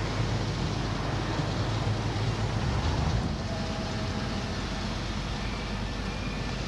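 Diesel engine of a Freightliner FL80 bucket truck running steadily with a low rumble.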